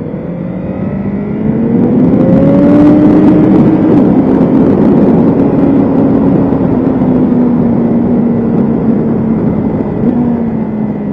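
BMW S1000RR's inline-four engine pulling hard, its pitch rising over the first three or four seconds and then holding, easing slowly, under a steady rush of noise.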